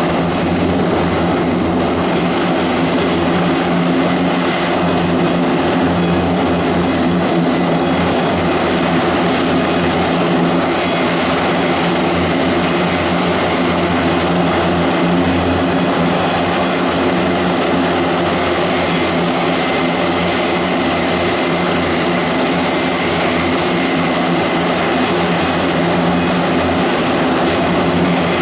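Airbus A400M turboprop engines with their propellers running steadily: a loud, even drone with hiss above it, holding the same pitch throughout.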